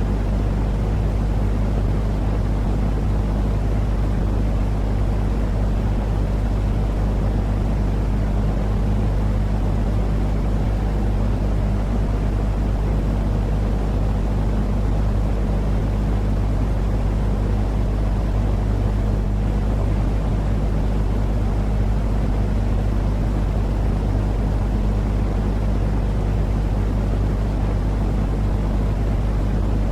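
Steady, low-pitched rumbling noise with a faint hum in it and no change in level: a continuous soothing noise played to calm a crying, colicky baby and lull it to sleep.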